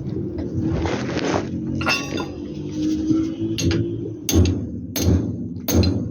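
A hammer striking metal on a truck's brake parts: a few light metallic clinks, then a run of sharp ringing blows about two-thirds of a second apart in the second half.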